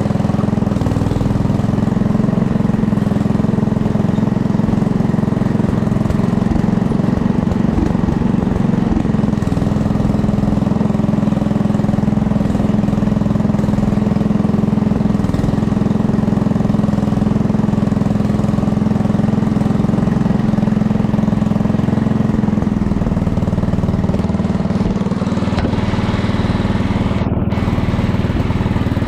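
Small vehicle engine running steadily in a low gear after a downshift as it is driven along. Its note changes a little over 20 seconds in.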